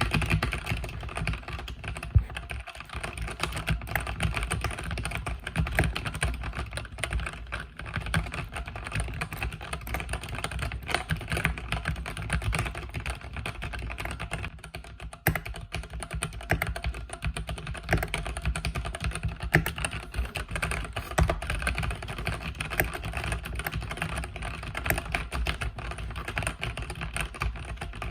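Continuous fast typing on a mechanical keyboard with red (linear) switches: a dense stream of key clicks and bottom-out clacks, with a couple of brief pauses.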